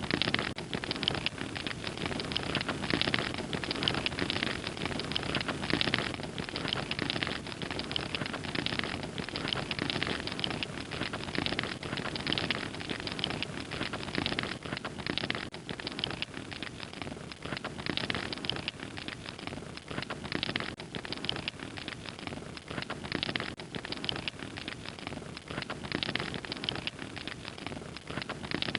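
Open fire crackling, a dense, irregular run of small pops and snaps over a low, steady rush of burning.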